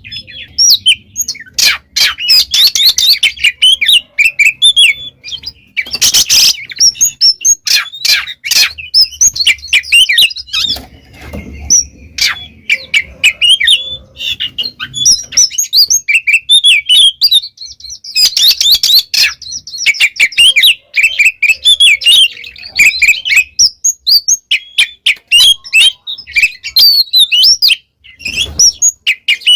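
Oriental magpie-robin (kacer) singing loudly and without a break: a fast, varied run of whistles, trills and harsh notes, the open 'ngeplong' song of a bird in top form.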